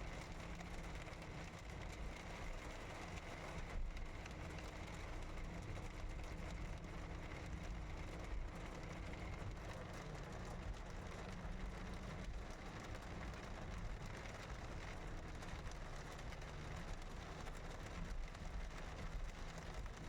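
Steady rain falling, with a low, even engine hum underneath.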